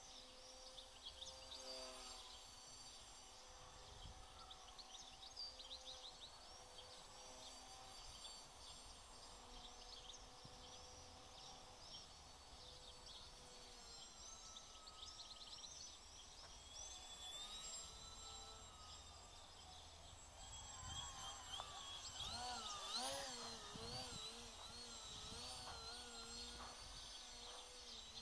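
Faint whine of an FPV quadcopter's brushless motors, its pitch wavering up and down with the throttle and growing louder and wobblier about three-quarters of the way through.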